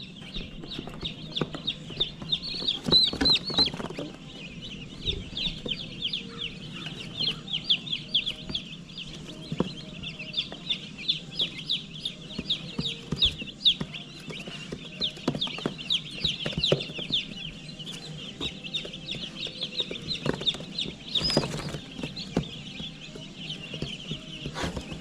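A brooder full of Cornish cross meat chicks peeping constantly, a dense chorus of short high-pitched chirps. A couple of brief rustles or knocks break in, about 3 seconds in and again past the 20-second mark.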